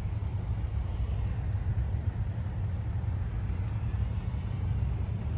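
CSX freight train led by an EMD SD70MAC diesel locomotive, a steady low rumble of diesel engines and rolling wheels as the train moves along the track.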